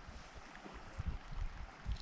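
Wind rumbling on the microphone in gusts, over a faint steady hiss.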